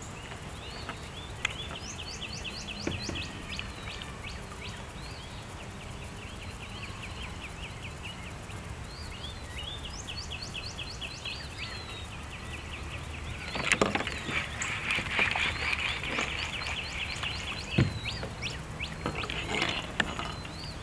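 Songbirds singing in repeated quick chirping trills along the riverbank. In the second half a few sharp knocks and a louder rough patch of noise come in as a hooked fish is brought in beside the kayak.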